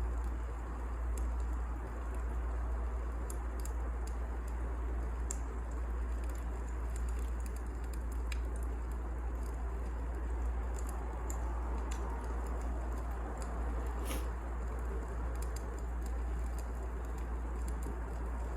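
Wood fire crackling, with a steady low rumble and scattered sharp pops, one stronger pop about 14 seconds in.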